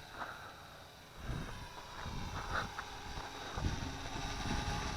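Wind buffeting the microphone, with the faint steady whine of a Syma X8C quadcopter's motors as it comes in to land. The sound grows louder near the end.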